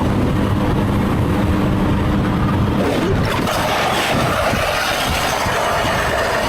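Motorcycle engine running at a steady pitch with wind noise. About three seconds in, the steady tone gives way to a louder rushing noise with a brief change in pitch.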